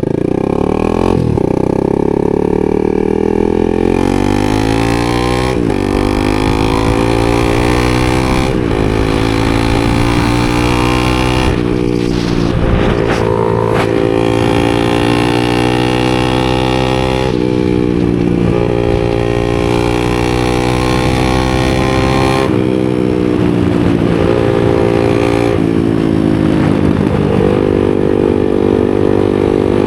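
250 supermoto motorcycle engine accelerating through the gears: the revs climb and drop back sharply at each upshift, several times in the first ten seconds. The engine then runs at a fairly steady pitch, with a few brief throttle changes.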